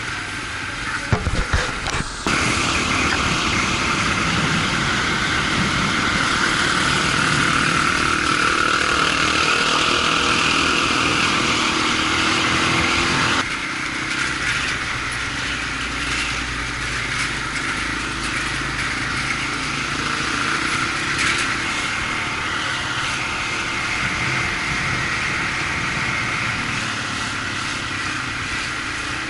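Motorcycle running on the move, its engine mixed with wind and road noise. There are a few knocks in the first two seconds, and the sound changes abruptly about two seconds in and again about halfway through.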